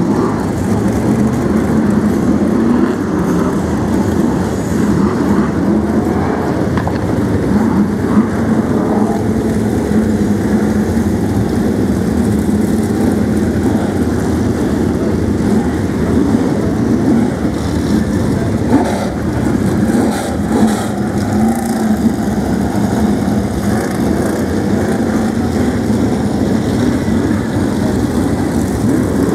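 Pack of BriSCA F1 stock cars running together, a continuous loud engine rumble that rises and falls a little without letting up.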